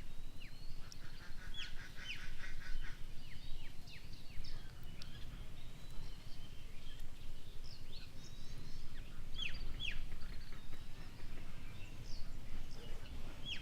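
Small birds calling outdoors: many short, sharp downward-sweeping chirps throughout, with a fast rattling trill about one to three seconds in, over a steady low rumble.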